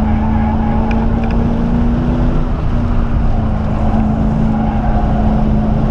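1997 SVT Cobra Mustang's 4.6-litre DOHC V8 running hard under load at fairly steady revs on track, heard from inside the cabin with road noise. The engine note sags slightly midway, then picks up again about two-thirds through.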